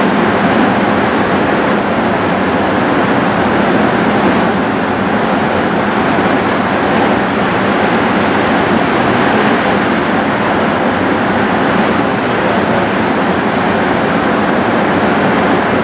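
Heavy rain pouring down steadily in a thunderstorm downpour, a loud even rush.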